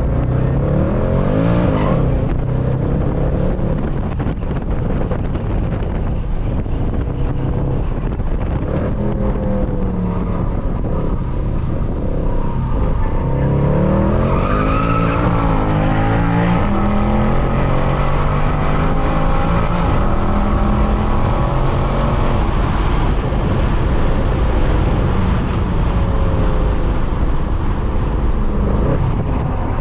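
Mercedes C63 AMG's 6.2-litre V8, with its secondary cats and resonators deleted, running hard on track. The revs climb and drop over and over with gear changes and lifts, with stretches of steady high revs.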